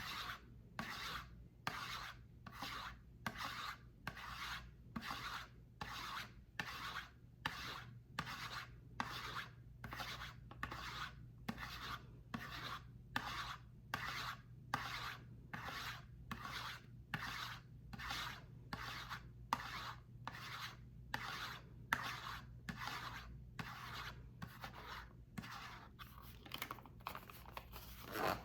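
A bar of soap being scraped in even, rhythmic strokes, about two a second.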